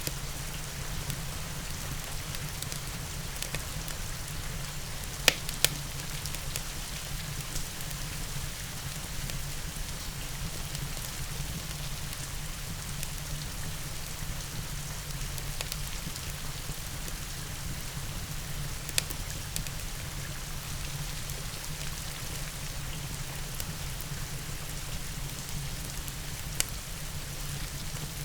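Steady rain with a wood fire crackling, and a few sharp pops from the fire: two close together about five seconds in, one about two-thirds of the way through and one near the end.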